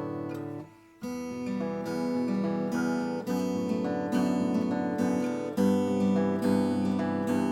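Vintage Japanese-made acoustic guitar being played. A chord rings out and dies away, there is a brief pause, then picked notes and strums start again about a second in.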